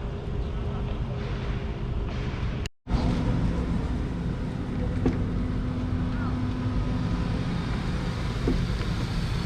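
Street traffic heard from a bicycle: a steady rumble of car and motorcycle engines. The sound cuts out completely for a split second about three seconds in.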